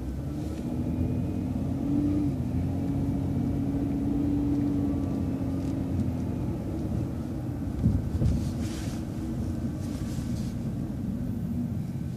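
City transit bus engine and drivetrain running as the bus drives, heard from inside the cabin: a steady low rumble with a whine that rises a little about two seconds in, then holds and fades.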